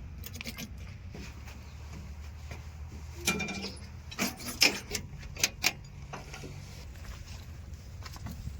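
Heavy diesel machinery running steadily with a low rumble, with a handful of sharp clanks and knocks about halfway through, one of them briefly ringing.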